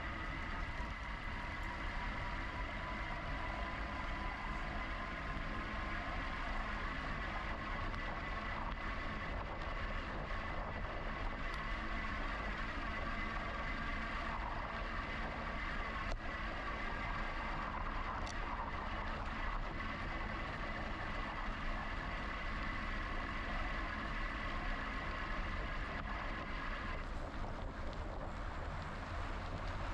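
Steady whine of a GoCycle GX electric bike's motor, heard over tyre rumble and wind noise while riding. The whine stops about 27 seconds in, leaving the rolling and wind noise.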